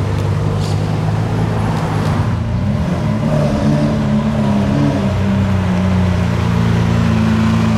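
A car engine running at low revs. About three seconds in its pitch rises, then holds steady and slightly louder, as if pulling away slowly.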